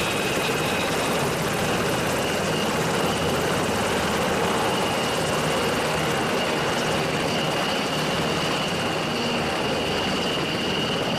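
Helicopter running: a steady wash of engine and rotor noise with a thin, high whine held throughout.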